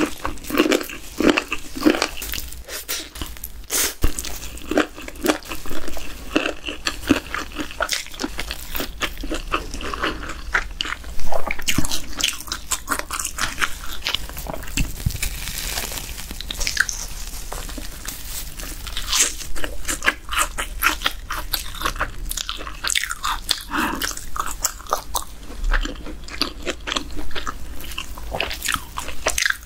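Close-miked chewing and crunching of crispy cheese-powder-coated fried chicken, with many irregular bites and mouth sounds. Partway through, a fried cheese ball is torn apart by hand and chewed.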